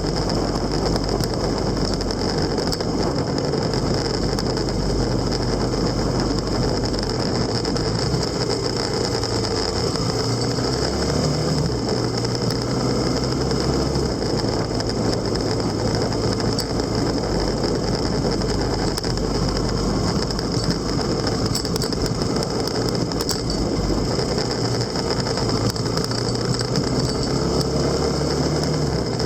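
Motorcycle engine running steadily under way, mixed with steady road and wind noise; the low engine note shifts a few times as the speed changes.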